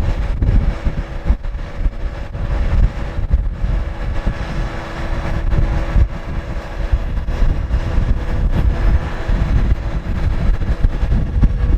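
Wind buffeting the microphone over the steady hum of a Scania R580's V8 diesel engine running.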